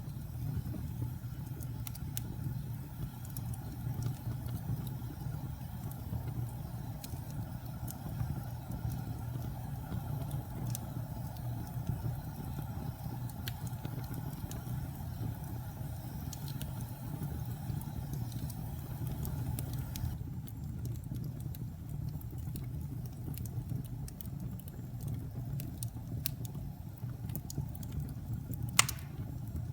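Wood fire burning in a fireplace: a steady low rumble of flames with scattered small crackles, and one sharp louder pop near the end.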